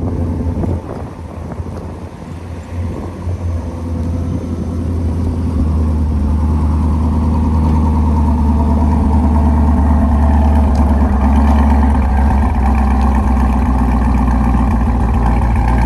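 2021 Chevrolet Corvette Stingray's 6.2-litre V8 idling loudly after a cold start. The sound dips briefly, then grows louder about five seconds in and holds there.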